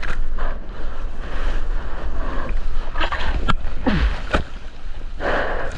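Wind rumbling on a GoPro microphone in the ocean, with water sloshing and splashing around the surfer and a few short sharp splashes.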